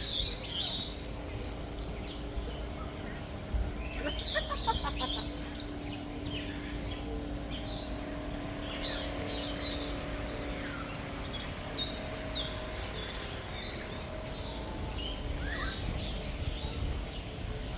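Several birds chirping and calling, with short high notes and quick clusters of chirps scattered throughout over a steady thin high-pitched tone.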